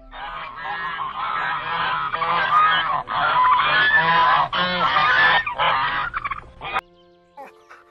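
Several geese honking, many calls overlapping in a dense chorus that stops abruptly about seven seconds in.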